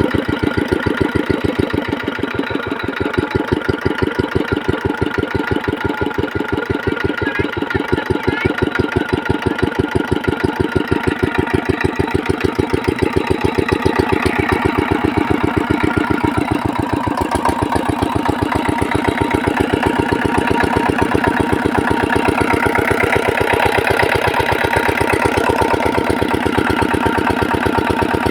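Single-cylinder 8 hp diesel engine driving a water pump, running with a rapid, even beat of firing strokes. Its level swells and sags a little over time, in keeping with an engine that cannot hold a steady speed.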